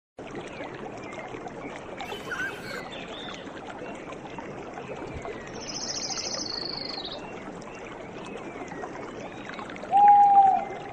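Outdoor nature soundscape: birds calling over a steady, dense natural background chorus. A high trill comes around the middle, and a loud, clear, slightly falling call near the end is the loudest sound.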